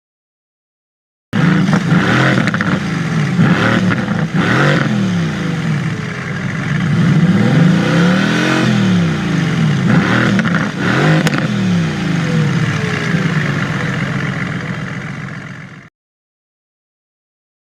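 A supercar engine being revved several times, its pitch rising and falling with each rev. It starts suddenly about a second in and cuts off abruptly near the end.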